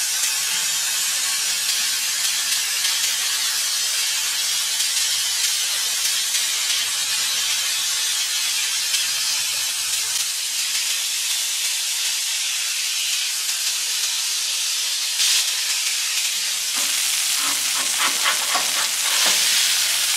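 Smash-burger patties of ground beef sizzling on a hot flat-top griddle as they are pressed flat: a steady frying hiss.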